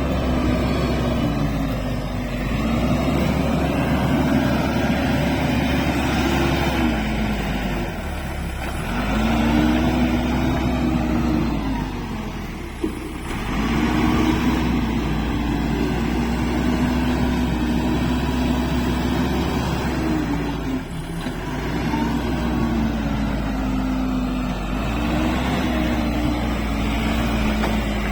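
Backhoe's diesel engine working under varying load, its pitch rising and falling every few seconds as the machine digs. There is one sharp knock near the middle.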